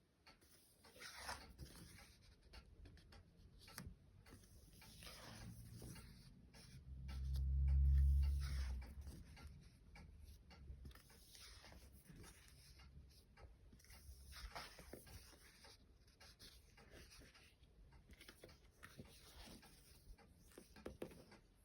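Pages of a children's book being turned and handled, with soft, irregular paper rustling and faint clicks. A low rumble swells up and fades about eight seconds in.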